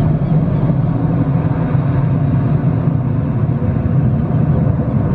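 Boeing 737-800's CFM56-7B turbofan engines at takeoff power, a loud steady low rumble as the jet climbs out after takeoff.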